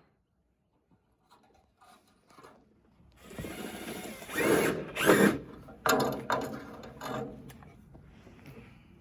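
Power drill running in several short bursts, the loudest about halfway through, after a few faint clicks.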